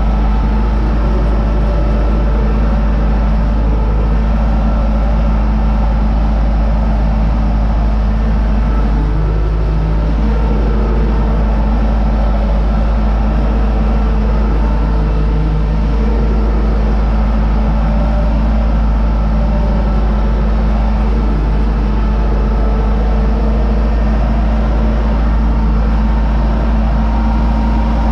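Universal U650 tractor's four-cylinder diesel engine running steadily with a deep rumble.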